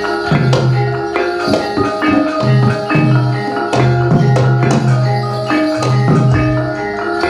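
Javanese gamelan music for a jathilan dance: struck metal keyed instruments ring out in a busy, even pattern, with a low note returning about once a second and percussion strokes throughout.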